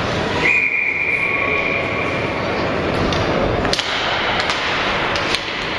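Ice hockey rink noise. A single steady, high whistle-like tone starts about half a second in and lasts over a second. Sharp clacks of sticks and puck on the ice and boards follow near the end.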